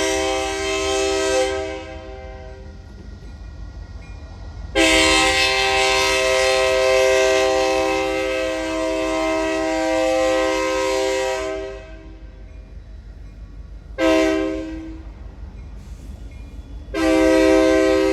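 Diesel locomotive's multi-chime air horn blowing the grade-crossing signal: a long blast ending about two seconds in, another long blast, a short one, then a long one starting near the end. A low engine rumble runs underneath.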